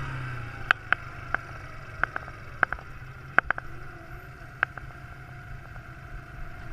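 Quad bike engine running low and steady, with scattered sharp clicks at irregular intervals.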